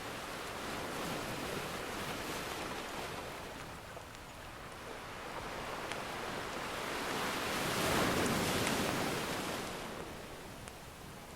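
Ocean surf washing ashore in slow swells, one wave building to its loudest about eight seconds in and then ebbing away. A couple of faint crackles from a wood fire sit beneath it.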